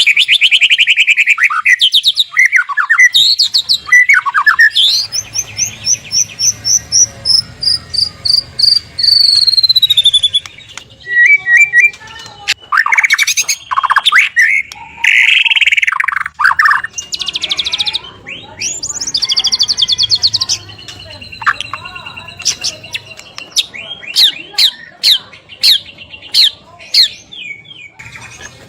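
White-rumped shama (murai batu) singing a loud, varied song of fast trills and sharp phrases, with a long run of clear notes falling steadily in pitch about five seconds in and rapid ticking series near the end.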